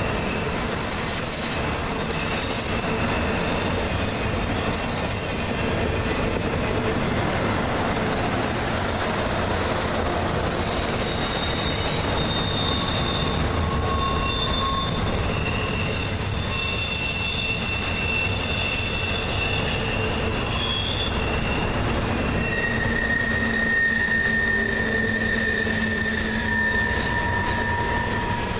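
Freight train cars rolling past with a steady rumble, their steel wheels squealing against the rail in long, held high-pitched tones that shift in pitch and overlap.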